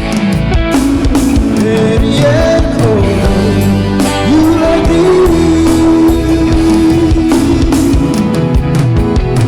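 A band playing a pop-rock ballad, with guitar and drums under a male singer. Near the middle the voice holds one long note for a few seconds.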